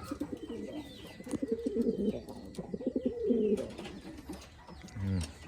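Domestic pigeons cooing, a low throbbing coo that is loudest in the middle and dies away about a second and a half before the end.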